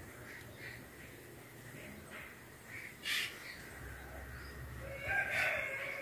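Backyard birds calling: a string of short chirps, a sharp loud call about three seconds in, and a louder, longer call near the end.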